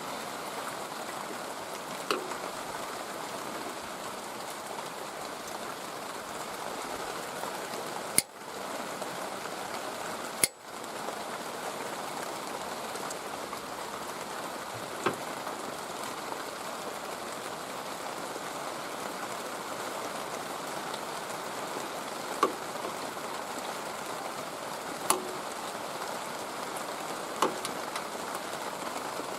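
Steady hiss of rain, with a handful of sharp metallic clicks scattered through it, like hand tools on engine parts.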